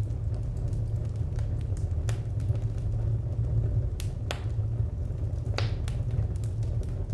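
Wood fire crackling: scattered sharp pops and snaps, a few of them louder, over a steady low rumble.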